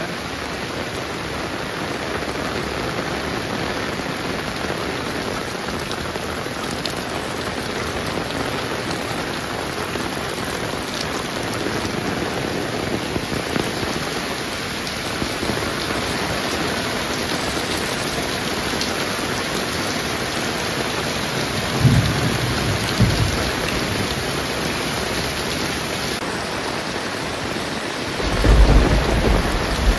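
Steady heavy rain, with thunder rumbling twice: a short low rumble about two-thirds of the way in and a louder, longer one near the end.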